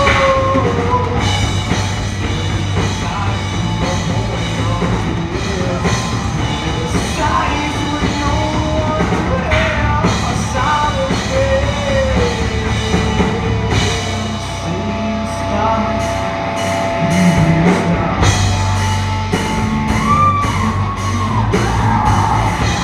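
A band's rock song: a singer over a drum kit and amplified instruments, playing continuously.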